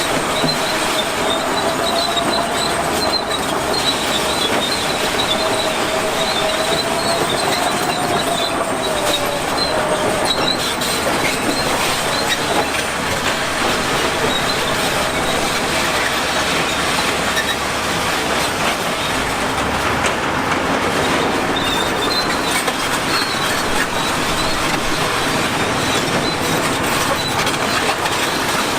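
Crawler bulldozer running, its steel tracks making a steady clatter with a high metallic squeal; a wavering whine fades out about nine seconds in.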